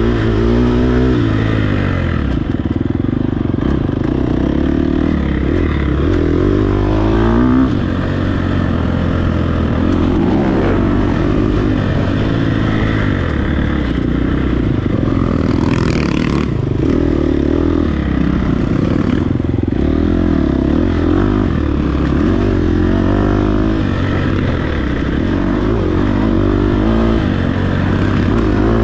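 Off-road dirt bike engine revving hard under race throttle, its pitch climbing and dropping every second or two as the rider gets on and off the gas and shifts. A short hiss of noise about sixteen seconds in.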